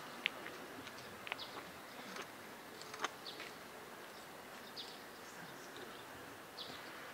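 Faint outdoor ambience with small birds giving short, high chirps every second or two, and a few sharp ticks.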